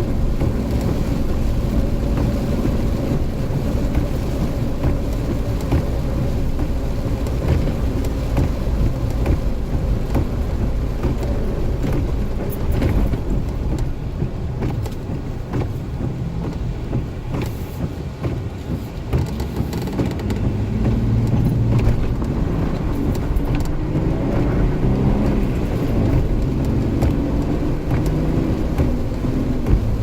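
A vehicle on 33-inch all-terrain tyres driving in a rainstorm: a steady engine and road rumble with rain on the vehicle. Near the end the engine's pitch rises and falls.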